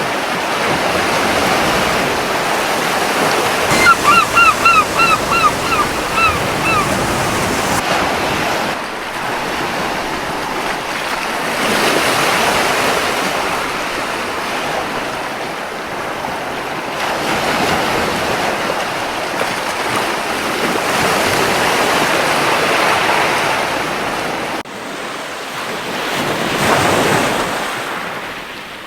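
Gentle sea waves washing onto a beach, the surf swelling and falling back every few seconds. About four seconds in, a seagull gives a run of about eight short calls lasting around three seconds.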